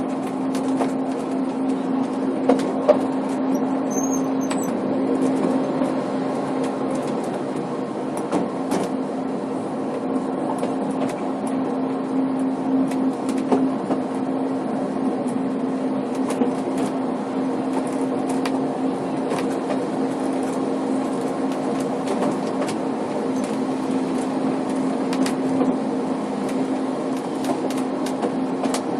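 Snowdon Mountain Railway rack-and-pinion train climbing, heard from inside the passenger coach: a steady, unchanging engine drone with scattered clicks and knocks from the running gear and track.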